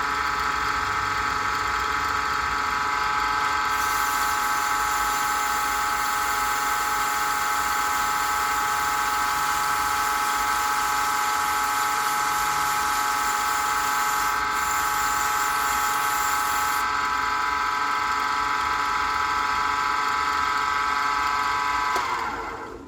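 Small wood lathe running at a steady speed with a constant whine while a pen blank turns. A higher hiss joins from about 4 s to 17 s as the spinning blank is worked. Near the end the motor is switched off and the whine drops in pitch as it winds down.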